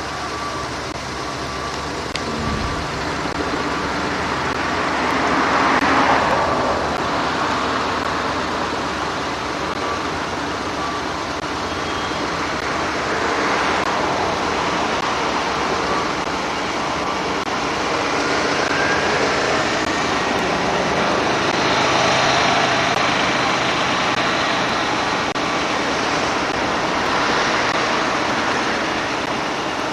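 Road traffic: motor vehicles going past, the noise swelling and fading about four times over a steady background of traffic.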